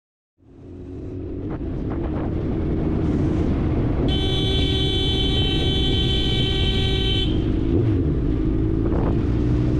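A vehicle horn sounds once, a single steady tone held for about three seconds, over a constant low rumble of road and wind noise.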